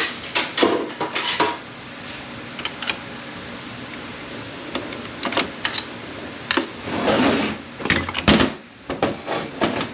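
Metal tools clinking, scraping and knocking against the steel parts of an A650E automatic transmission as its oil pump is pried out of the case. There are irregular sharp clicks, a scrape about seven seconds in and a louder knock a little after eight seconds.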